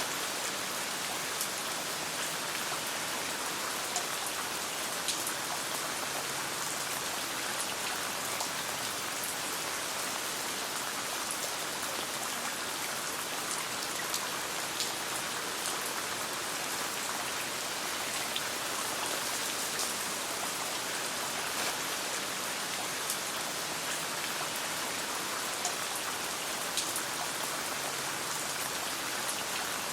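Steady rain falling, an even wash of patter with scattered sharp drop ticks at irregular intervals.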